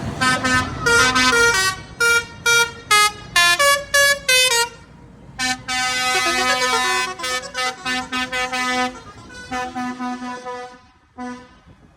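Tractor horns tooting: a run of short blasts at several different pitches, then a long held blast about halfway through, followed by a few more short toots.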